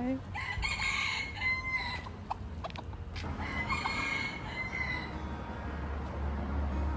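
Rooster crowing twice, each crow drawn out over a second or more, the second starting about three seconds in.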